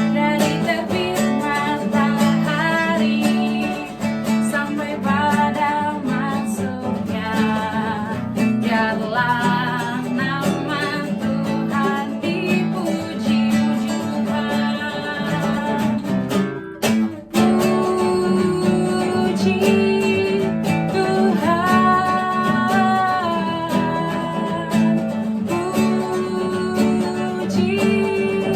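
Acoustic guitar strumming a praise song, with a melody line carried over it. The sound drops out briefly about 17 seconds in.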